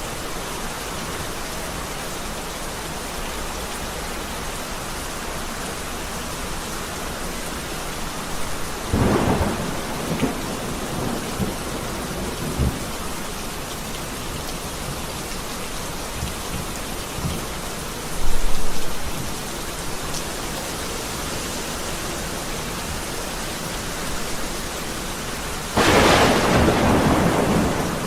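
Heavy rain falling steadily, with thunder breaking through several times. There is a crack and a rumble about nine seconds in, a loud peal near the middle, and another sharp crack with a long roll near the end.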